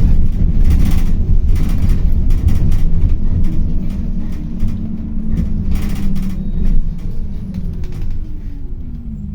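City bus heard from inside the cabin: a heavy low rumble from the drive and road with a few knocks, and a motor whine that falls in pitch over the last two seconds as the bus slows down.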